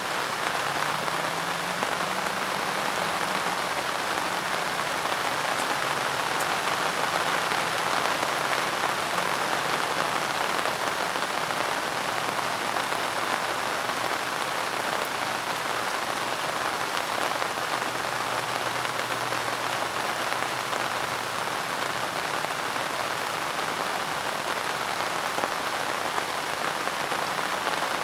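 Steady rain falling on a surface, an even, unbroken patter of drops.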